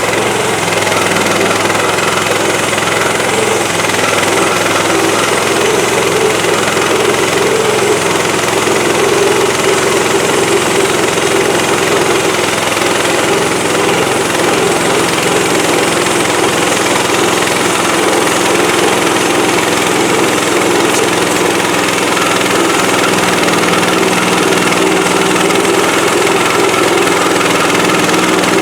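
Woodland Mills HM130MAX portable bandsaw mill's gasoline engine running steadily.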